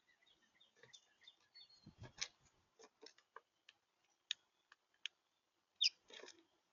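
Small birds at a feeder: a few short, high chirps in the first two seconds and a quick downward chirp about six seconds in, among scattered sharp taps and ticks, the loudest with a soft thud about two seconds in.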